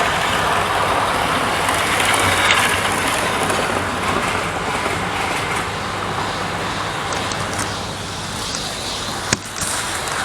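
Model trains running on the layout track: a steady whirr of the motors and the wheels on the rails. A single sharp click comes about nine seconds in.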